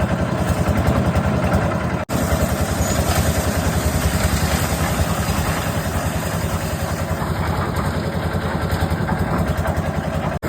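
An engine running steadily with a fast, even low throb. The sound cuts out for an instant about two seconds in.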